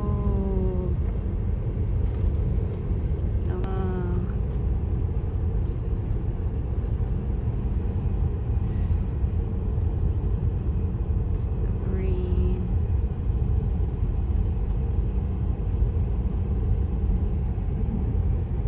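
Steady road and engine rumble inside a moving car's cabin, with a few short voice sounds near the start, about four seconds in and about twelve seconds in.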